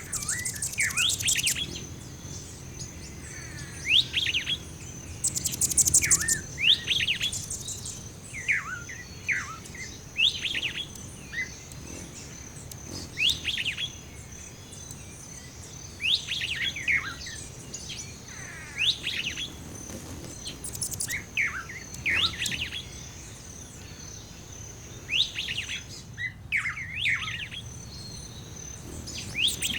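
Birds singing and chirping in a background ambience: short, quick sweeping phrases every second or two, over a steady thin high-pitched tone.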